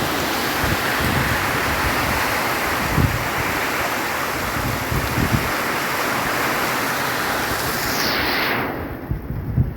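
Heavy rain with strong wind: a dense, steady hiss of downpour with gusts buffeting the microphone. The hiss drops off sharply near the end.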